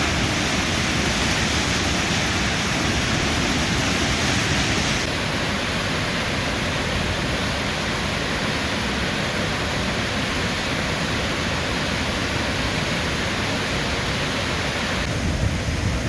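Štrbački buk, a large waterfall on the Una river, giving a steady, dense rush of falling water. The sound drops slightly in level and brightness about five seconds in and changes again near the end.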